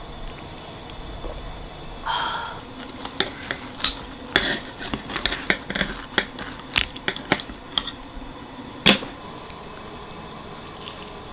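A rustle, then a run of irregular light clinks and taps of dishes and utensils, the loudest one near the end.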